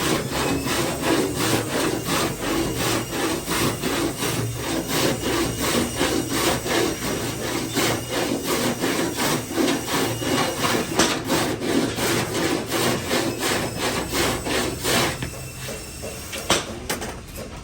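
Rhythmic back-and-forth scraping strokes, about three a second, of a hand tool worked over a damaged car door's body panel. The strokes ease off and grow quieter near the end.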